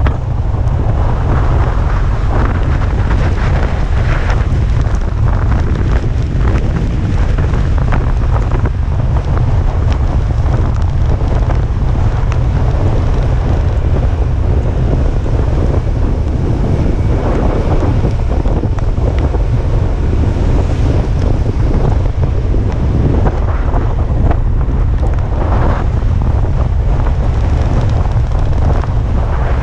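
Strong typhoon wind buffeting the action camera's microphone: a heavy, continuous low rumble with gusty rushing noise over it.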